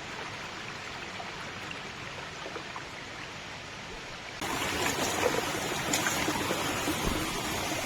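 Stream water rushing steadily down from a waterfall, a constant splashing hiss that jumps suddenly louder about halfway through.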